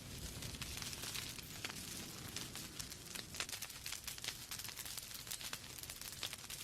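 Wood fire burning in a fireplace: a steady soft hiss with many small, sharp crackles and pops from the logs.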